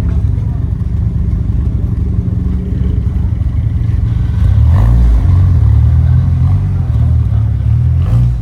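A car engine running loud with a deep exhaust rumble, growing louder about halfway through.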